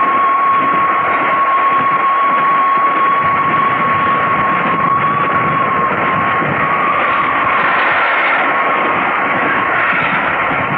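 Steam whistle of the LNER class A3 locomotive Flying Scotsman in one long, steady blast, over the rushing noise of the running train. The whistle fades out about six seconds in, and the train noise carries on.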